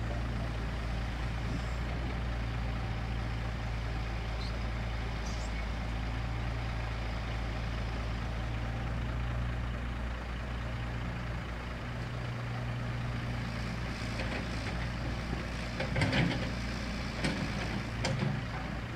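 A Scania P114 340 hp truck's diesel engine running steadily, with a few short sharp sounds near the end.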